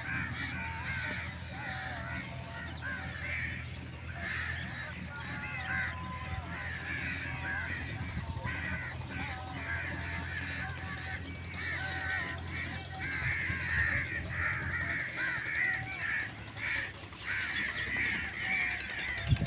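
A flock of birds chattering and calling continuously while they feed on freshly sown maize seed, over the steady low hum of a tractor engine running.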